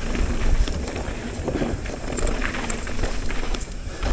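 Mountain bike riding down a rough, choppy trail over braking bumps: tyres on dirt and the bike rattling and clattering, with many small knocks over a low rumble.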